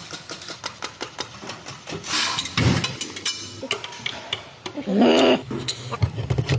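Hand tools clicking and knocking on metal during exhaust work under a car, a run of short sharp clicks. There is a brief gliding, voice-like sound about five seconds in, and a low hum near the end.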